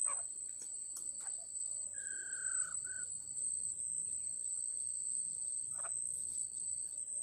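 Insects shrilling in the forest: a steady high-pitched tone with a lower trill that starts and stops in spurts of about a second and a half. A bird gives a short falling whistled note about two seconds in.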